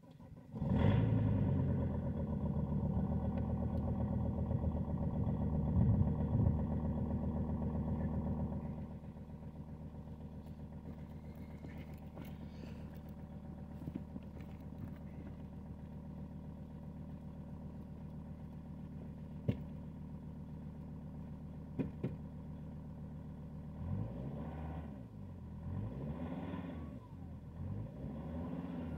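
Volvo S80 2.4 five-cylinder common-rail diesel starting from cold, catching about half a second in. It runs at a raised cold idle for about eight seconds, then settles to a lower, steady idle, and is revved a few times near the end.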